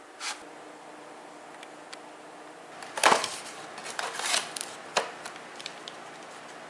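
Small handling sounds in a room: a few light clicks, a knock about three seconds in followed by a brief rustle, and another click about five seconds in.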